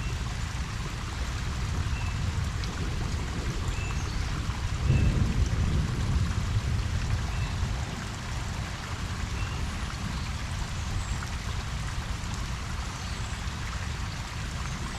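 Steady rain falling on a pond, an even hiss of drops on the water. A low rumble of distant thunder swells about five seconds in and fades a few seconds later.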